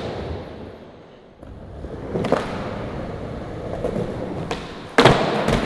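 Skateboard wheels rolling on pavement, with a sharp clack of the board a little past two seconds in. The loudest hit comes at about five seconds, a clack and thud as the board comes down, and the wheels roll on after it.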